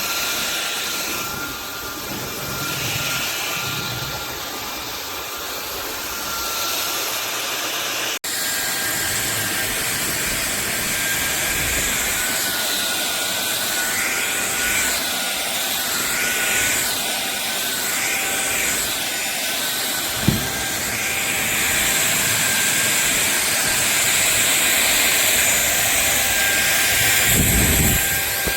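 SunSare X7A cordless stick vacuum cleaner running steadily, a high motor whine over a rush of air. The sound cuts out for an instant about eight seconds in, and there is a single knock about twenty seconds in.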